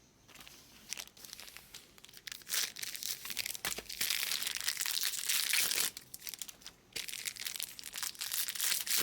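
Foil trading-card pack wrappers crinkling as packs of Bowman Chrome cards are opened and handled: a run of quick crackles and clicks, busiest about four to six seconds in.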